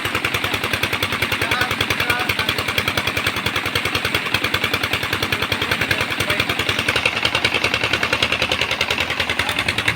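Diesel engine running steadily at idle, its exhaust giving a fast, even chugging beat of roughly ten pulses a second.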